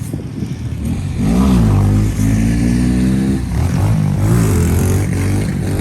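Small mini bike engine revving close by: the pitch climbs and falls about a second in, holds steady, dips, then climbs again near four seconds.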